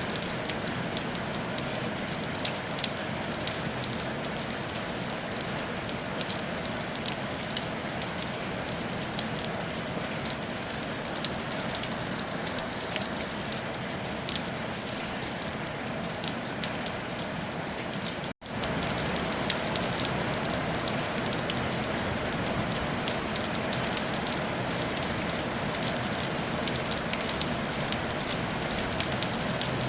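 Steady rain falling on a tile roof, with many separate drop hits heard through an even hiss. About 18 seconds in it cuts out for an instant, then resumes a little louder and fuller in the low end.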